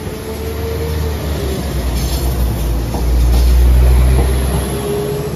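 Northern diesel multiple-unit train moving along the platform: a deep engine rumble with a steady whine, swelling loudest about three to four seconds in.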